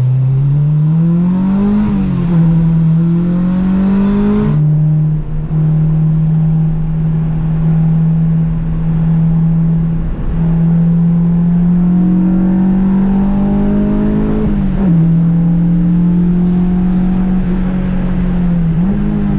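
Honda Civic engine pulling up through the revs, upshifting about two seconds in, then holding steady moderate revs for a long stretch; it climbs again and upshifts a little past the three-quarter mark, as the car eases around on a cool-down lap.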